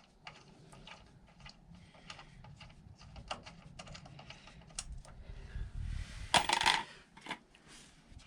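Irregular small metallic clicks and clinks of bolts and tools being handled while the scooter's exhaust fittings are undone, with one louder scraping clatter about six seconds in.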